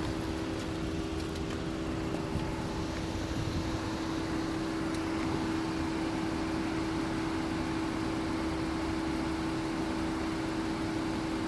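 Steady mechanical hum holding one constant tone, over a low even noise.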